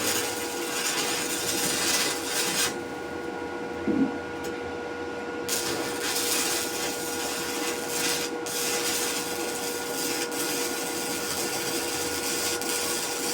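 A machine running steadily with a constant hum under a rasping hiss; the hiss drops away for about three seconds near the start, with a single low thump in that gap.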